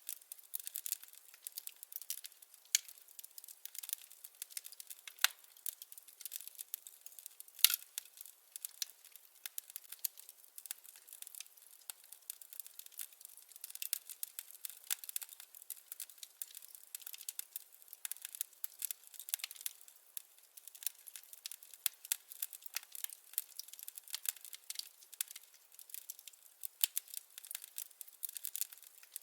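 Firewood burning in a fireplace, crackling with dense irregular pops and snaps, several a second, and an occasional louder pop, the loudest about seven and a half seconds in. There is no low rumble beneath the crackle.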